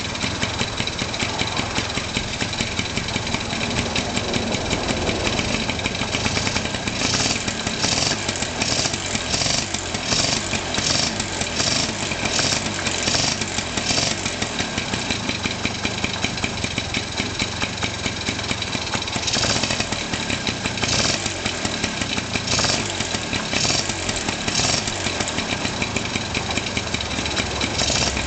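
Honda Lead 100 scooter's small engine idling steadily after starting. Two runs of short hissy bursts, about two a second, come over the idle in the middle and again later.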